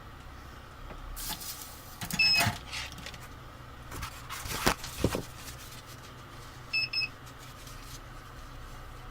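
Short electronic beeps, one about two seconds in and a quick double beep near the end, among clattering handling knocks over a steady low hum.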